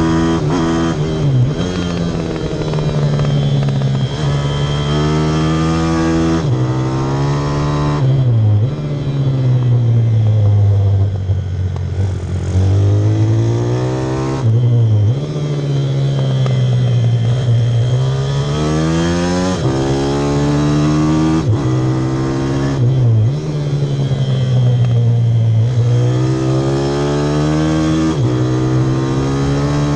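Pit bike's single-cylinder engine run hard, revving up and easing off over and over, with sudden short drops in pitch between the climbs.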